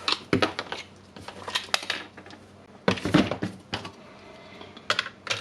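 Irregular clicks, taps and knocks of a cordless drill's plastic housing and internal parts being handled during disassembly, with a denser clatter about three seconds in.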